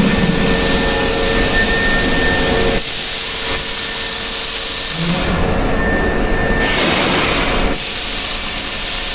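Hankyu 3300 series electric train running at speed: a loud, steady rushing roar of wheels and air that changes character abruptly a few times.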